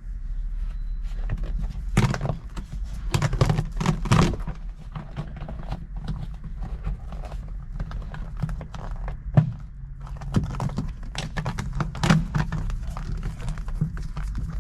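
Irregular knocks, taps and clicks from work on a car's body and trim panels, with a few louder thuds, over a steady low hum.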